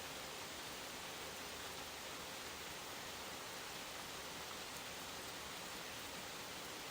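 Steady, even rain on woodland, with a faint steady tone underneath.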